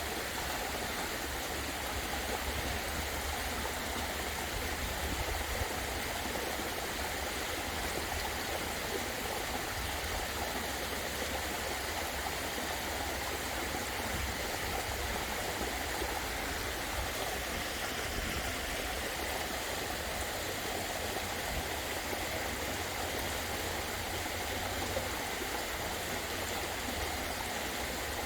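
Waterfall pouring steadily: an even, unbroken rush of falling and running water.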